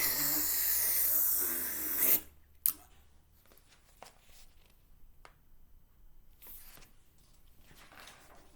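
A person making a long, noisy slurping sound with the mouth for about two seconds, imitating a bird slurping up a worm. Then a single sharp click and faint rustling.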